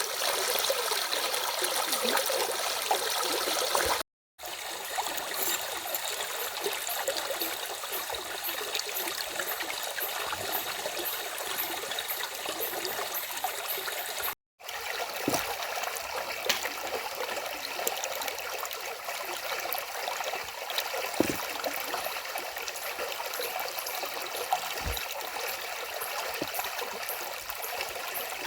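Stream water flowing and trickling steadily. The sound cuts out completely twice, briefly, about four seconds in and again about fourteen seconds in.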